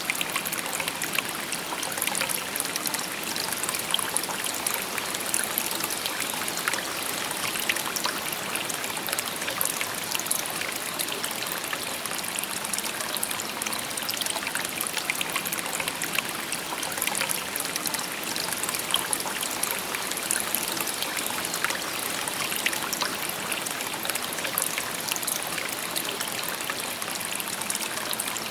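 Shallow river babbling steadily over stones, a continuous rush of running water with constant small trickles and splashes.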